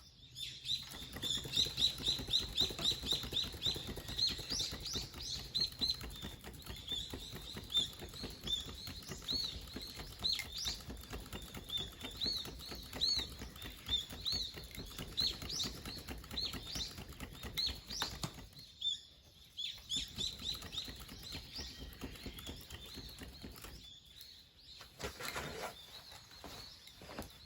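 Small wood fire crackling with irregular pops, with many short high chirps over it for most of the stretch; it goes briefly quieter twice in the second half.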